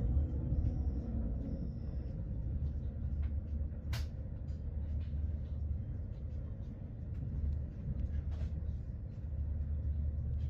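Steady low rumble of a moving passenger train heard from inside the carriage, with faint scattered clicks and one sharp click about four seconds in.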